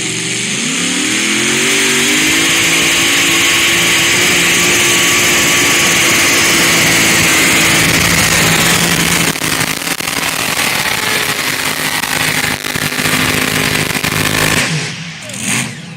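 Competition pulling tractor's engine revving up at the start of a pull and running loud at full throttle. It eases and falters from about nine seconds in, then dies away near the end.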